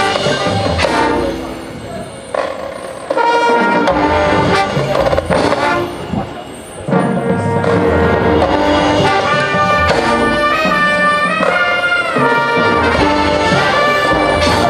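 Marching band's brass section playing loud sustained chords over percussion, building in swells that come in strongly about three and seven seconds in.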